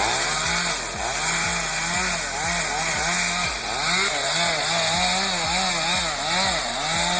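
Chainsaw running with the throttle opened and let off again and again, its pitch rising and falling in quick succession.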